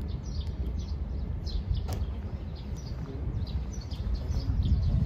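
Small birds chirping in many short, quick calls over a steady low rumble, with one sharp click about two seconds in.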